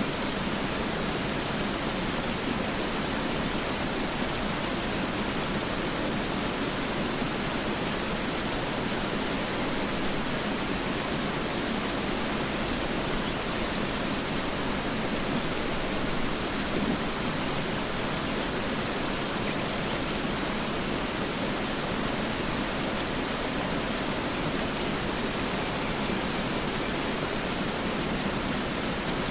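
Mountain river flowing: a steady, unchanging rush of water.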